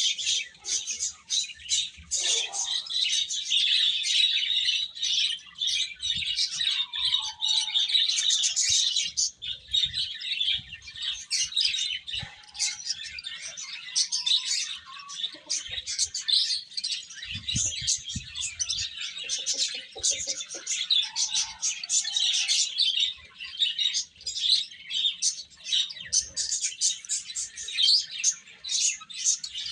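A brood of baby chicks peeping continuously, many high, overlapping chirps at once, with a few soft low knocks partway through.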